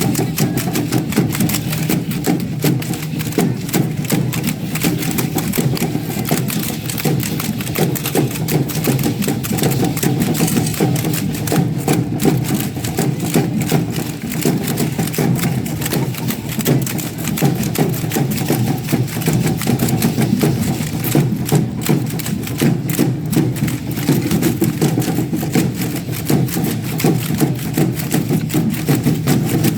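Matachines dance: a dense, fast rattling and clicking of percussion over a steady-pitched music part, continuous and without a break.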